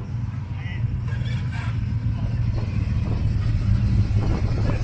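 Car engine running with a steady low rumble, getting slightly louder towards the end.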